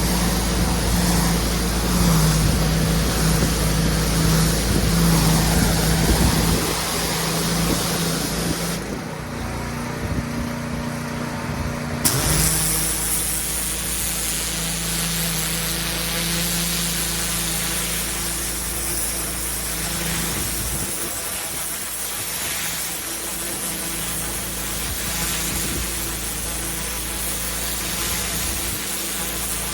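Pressure washer running steadily with the hiss of water jetting onto paving. The spray hiss stops for about three seconds around nine seconds in, then comes back with a sharp click.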